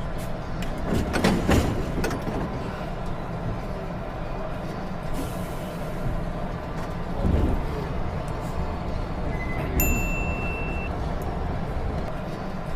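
Steady rumble of a subway train running, with a few clicks and knocks, and a short electronic beep about ten seconds in.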